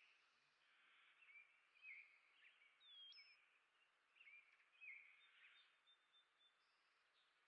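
Faint chirping and twittering of small songbirds, a run of short calls with a clear rising whistle about three seconds in.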